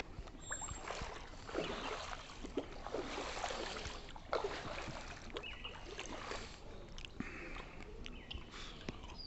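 Rainwater sloshing and trickling, with irregular small splashes and clicks.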